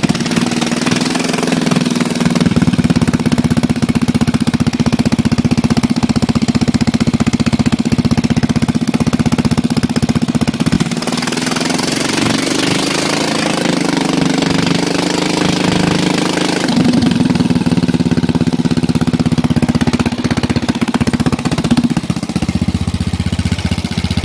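Bolens lawn tractor's single-cylinder engine running with its muffler removed, exhaust firing straight out of the open pipe: loud and rattly. The engine speed picks up briefly about halfway through, then settles back.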